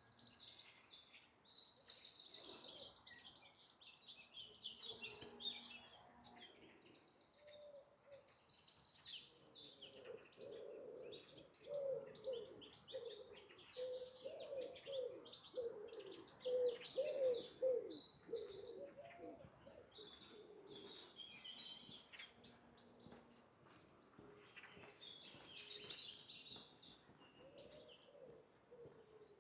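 Wild birds singing and chirping, with high, fast chirps and trills throughout. Through the middle there is a run of lower, repeated call notes.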